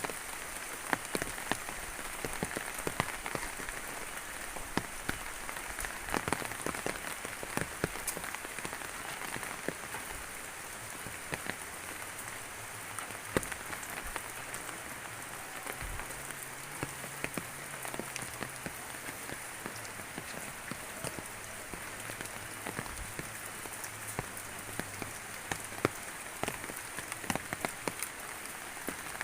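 Steady rain falling, with many sharp ticks of individual drops striking close by.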